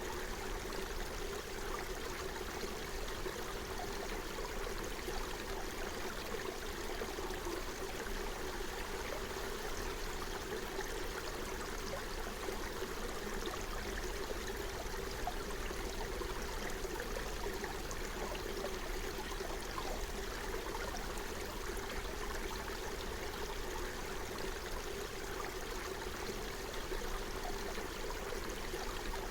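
Forest stream flowing steadily, an even, unbroken rush of running water.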